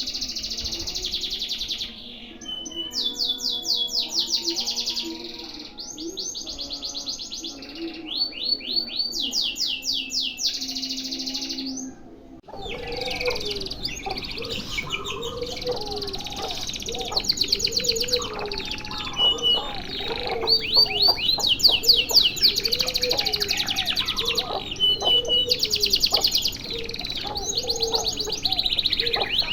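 Domestic canary singing long runs of fast rolling trills, broken by short clear piping notes. About halfway through the song becomes more continuous, with a lower repeated call underneath.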